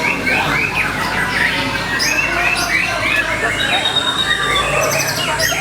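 White-rumped shama (murai batu) singing a fast, busy song: runs of short, quickly repeated notes, about five a second, mixed with other chirps and calls.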